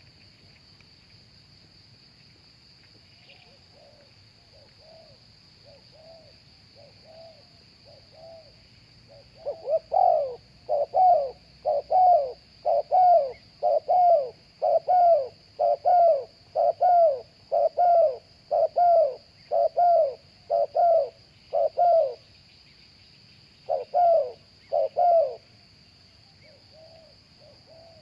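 Spotted dove cooing: a few soft coos from about three seconds in, then a loud run of evenly spaced coos, about one a second, from around ten seconds, a short pause, and two more coos a couple of seconds later.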